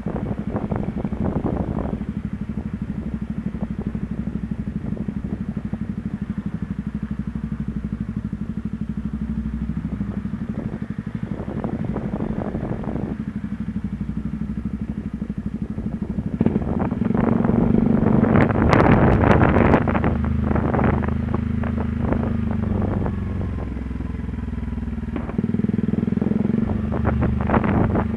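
Yamaha WR125R's 125 cc single-cylinder four-stroke engine running steadily on the move. About two-thirds of the way through it gets louder, with gusts of rushing noise over it.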